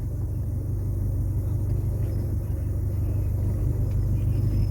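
Steady low rumble of a 1981 Cadillac Seville being driven, its engine and tyres running evenly.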